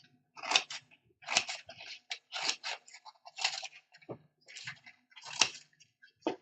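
Short, irregular rustles and scrapes of paper being handled during crafting, roughly one a second.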